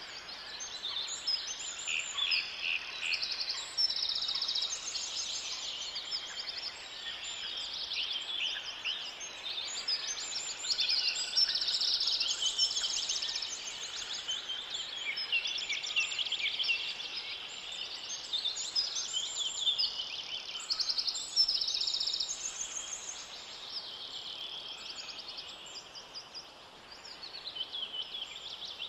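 Forest birdsong: several birds singing at once, with overlapping chirps, whistles and rapid trills that never let up.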